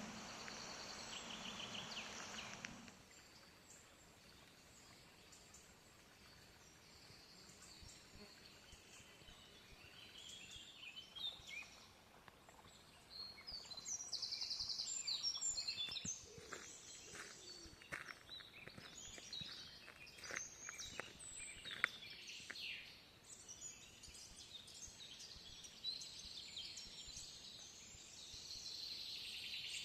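Several small birds singing and calling in a forest, busiest from about a third of the way in. A steady rushing noise fills the first few seconds.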